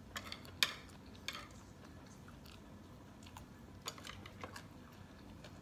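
A person chewing a mouthful of food close to the microphone, with a few short crunches and clicks scattered through, the sharpest about half a second in.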